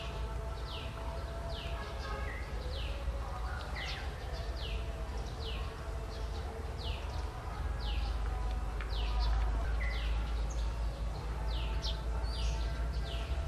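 A bird calling over and over: a short, quick falling note repeated about once a second, over a steady low rumble that grows louder about two-thirds of the way through.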